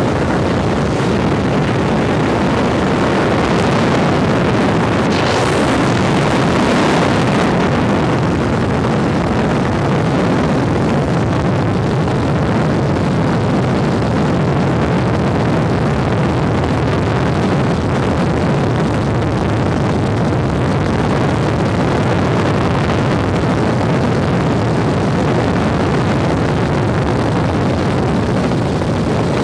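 Helicopter in flight, its rotor and engine heard as a loud, steady drone, with a brief rushing sound about five seconds in.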